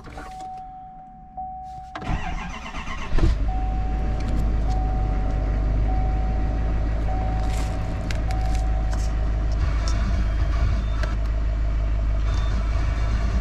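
A pickup truck's engine cranking about two seconds in, catching about a second later and then idling steadily. A dashboard chime sounds in pulses over it until about two-thirds of the way through.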